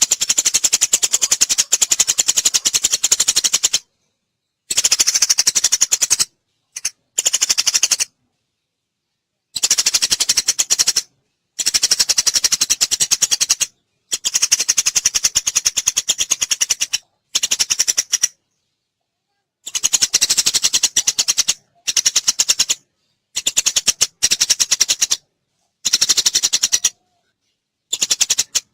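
Eurasian tree sparrow chirping and chattering in rapid runs of sharp notes, in bursts of one to three seconds with short silent gaps between them.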